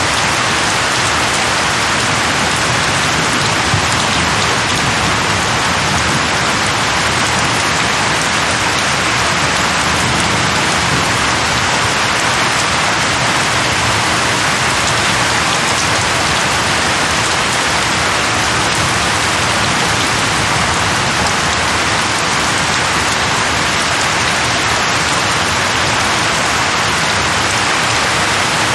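Heavy rain falling steadily in an even, dense hiss, with no thunder or separate drops standing out.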